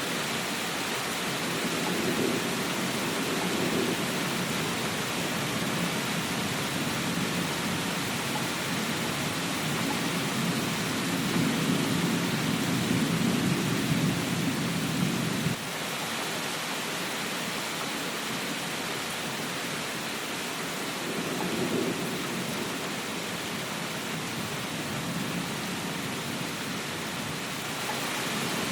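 Steady rainfall with rolling thunder rumbling underneath in several swells; the longest rumble, about halfway through, cuts off abruptly.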